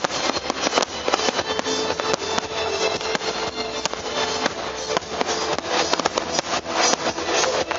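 Fireworks popping and crackling in quick succession over music from the display's disco-themed soundtrack.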